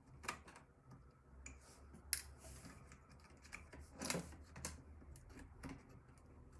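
Scattered clicks and small knocks of computer parts being handled during disassembly, with a sharp click about two seconds in and a louder clatter about four seconds in.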